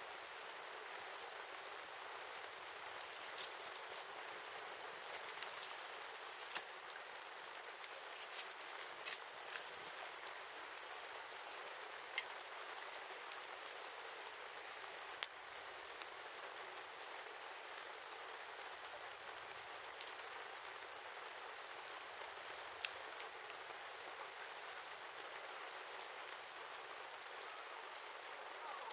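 Wood campfire burning: a steady hiss with sharp crackles and pops, frequent in the first ten seconds or so and then sparser.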